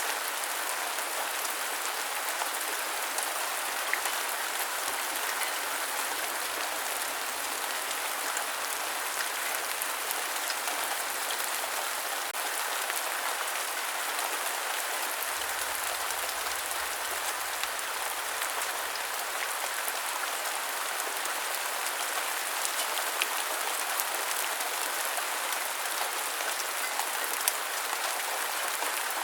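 Steady rain falling, an even patter with scattered small drop ticks.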